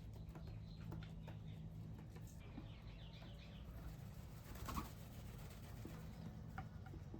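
Faint wild birds at a bird bath: a run of short high chirps about three seconds in and a brief louder call or wing flutter near five seconds, over a steady low hum.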